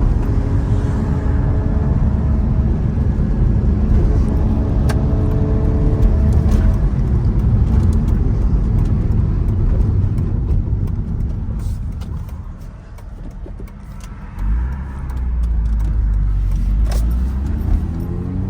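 Mazda RX-7 FD's twin-turbo 13B rotary engine running as the car is driven. It drops off about twelve seconds in, then comes back as a strong, steady low hum for the last few seconds.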